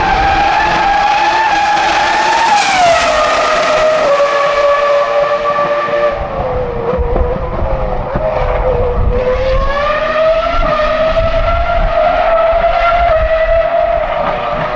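Cosworth CR-6 3.0 litre V10 of a 2004 Jaguar R5 Formula 1 car running at very high revs, a piercing high-pitched howl. The pitch drops about three seconds in and again around six seconds, then climbs back up from about nine seconds as the engine pulls.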